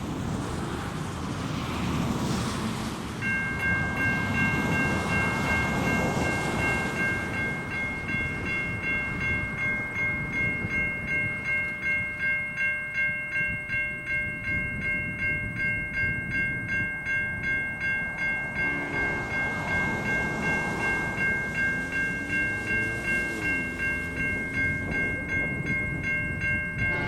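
Level crossing electronic bells (Safetran Type 3 e-bells) start a few seconds in and ring on in a steady, rapid repeating ding as the crossing activates.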